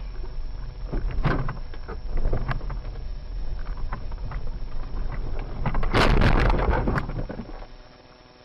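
Vehicle recording with a steady low rumble of road and wind noise and scattered knocks, broken about six seconds in by a loud rush of noise lasting about a second; the level then falls away near the end.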